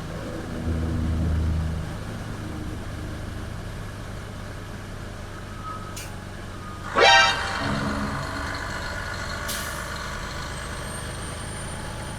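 Freightliner Cascadia truck driving on the highway: steady engine and road drone, with one short, loud pitched blast about seven seconds in.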